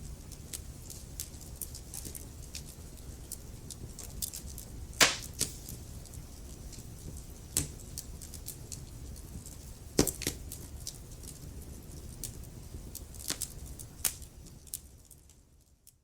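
Wood fire crackling in a fireplace: a steady low rumble of flames under frequent sharp snaps and pops, the loudest about five and ten seconds in. It fades out just before the end.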